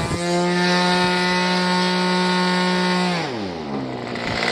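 OS .46 two-stroke glow engine of a model airplane held at full throttle, a steady high-pitched buzz, then throttled back about three seconds in, its pitch sliding down to idle.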